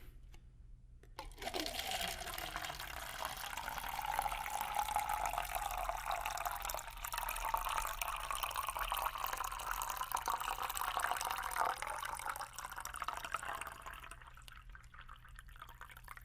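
Water being poured into a cup in a steady stream, the pitch of the filling cup climbing slowly. The pour starts about a second in and tails off near the end.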